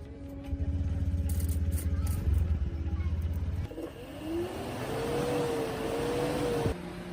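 Restored farm tractor engine running with a heavy, pulsing low rumble, then revving up and holding at higher speed before the sound cuts off suddenly near the end.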